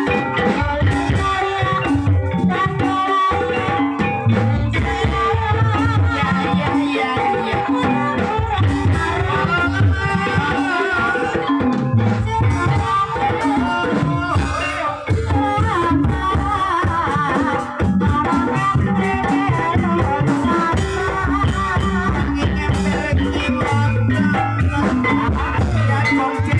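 Live ebeg campursari music: a Javanese ensemble with a steady drum pulse, jingling rattle-like percussion and a wavering sung or played melody.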